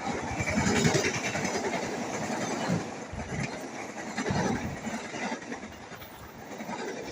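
Train running through at speed, its wheels rumbling and clattering on the rails.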